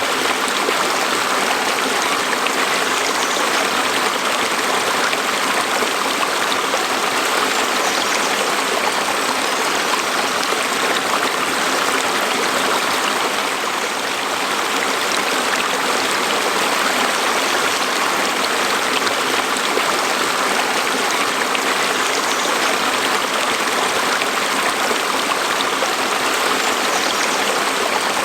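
A stream flowing over rocks: a steady rushing and babbling of water.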